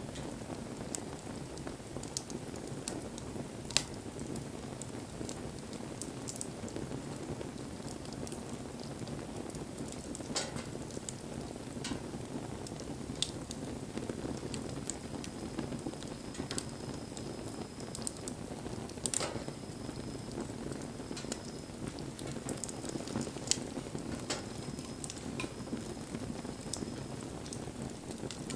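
Wood bonfire burning: a steady low rush of flame with scattered sharp crackles and pops. A faint, thin, high whistle comes and goes in the second half.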